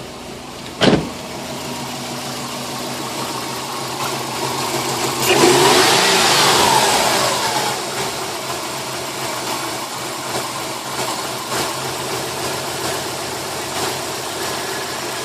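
2005 Subaru WRX turbocharged flat-four idling, with a sharp click about a second in. About five seconds in it is blipped up in a rise and fall of revs, then drops back to an uneven idle. The idle stumbles with the misfire that shows as it returns to idle, which persists despite new plugs, coils, MAF and ECU.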